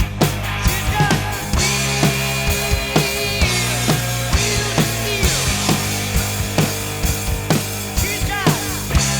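Drum kit played along to a heavy metal track, with a steady rock beat of regular kick and snare hits under sustained, bending electric guitar notes and bass.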